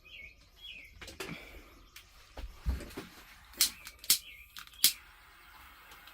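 A handful of sharp knocks and taps from work on an upper sleeper bunk, the three loudest coming quickly one after another in the second half, with a dull thump before them. Birds chirp faintly in the background.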